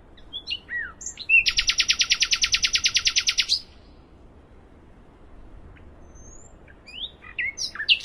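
Nightingale singing: a few short whistled notes, then a loud rapid trill of about ten notes a second lasting about two seconds. After a pause, more short notes come near the end.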